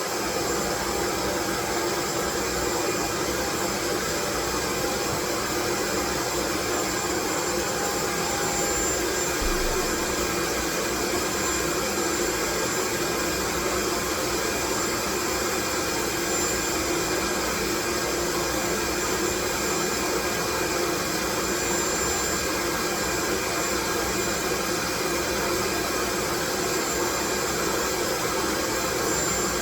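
Continuous loud white noise, an even rushing hiss with no change in level, carrying a faint steady machine-like hum; one faint higher tone in it fades out about nine seconds in.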